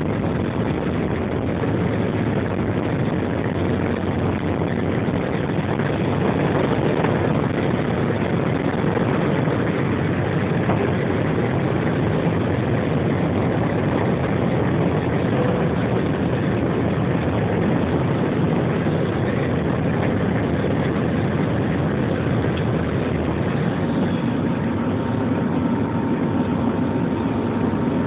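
Jet airliner's engines and rushing airflow heard from inside the passenger cabin during takeoff and climb: a loud, steady noise.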